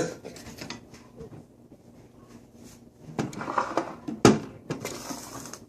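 Objects being picked up and moved by hand: some rustling and handling, a sharp knock a little past the middle, then more handling.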